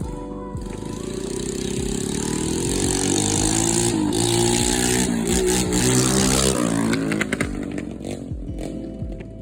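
110cc single-cylinder pit bike engine running and being revved up and down, loud and rasping with its exhaust not yet finished. It comes in about half a second in, is loudest in the middle, and drops back near the end.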